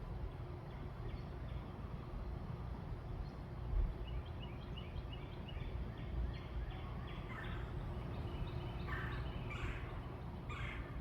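Backyard bird calls over a steady low outdoor rumble. About four seconds in, a quick run of short, high chirps begins. From about seven seconds on, louder, coarser calls repeat several times.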